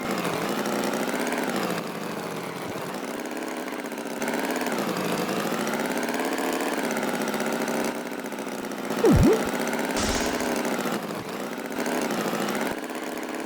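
Steady engine-like drone whose pitch wavers slowly up and down. About nine seconds in comes a short sliding whistle that dips and rises again, followed by a brief hiss.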